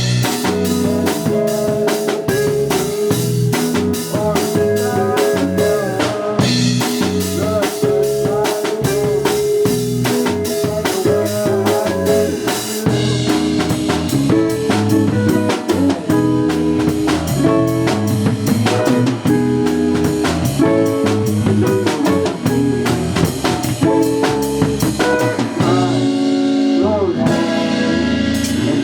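Live band playing an instrumental stretch of a song: drum kit keeping a steady beat under electric guitar and bass, with no vocals.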